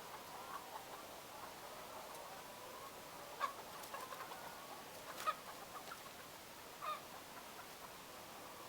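A flock of laying hens clucking and chattering steadily, with three louder single calls in the middle of the stretch.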